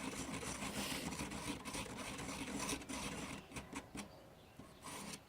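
Screwdriver stirring and scraping two-part epoxy on a mixing surface: a continuous scratchy rubbing that thins out over the last second or two, with a few small clicks.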